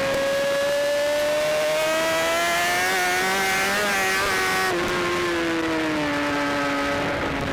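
BMW S1000RR race bike's inline-four engine at high revs. Its note climbs for about four seconds, then drops and falls away steadily as the bike slows.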